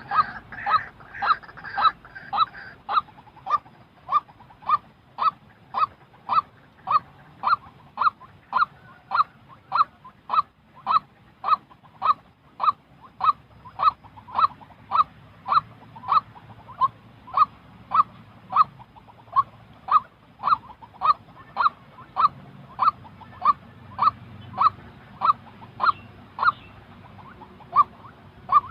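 White-breasted waterhen calling: a steady, monotonous series of short notes, about two a second. A second, higher-pitched call overlaps in the first two seconds.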